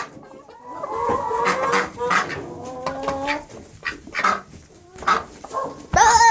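Chickens clucking and calling in the coop, a run of short, choppy calls, with one louder, drawn-out call near the end.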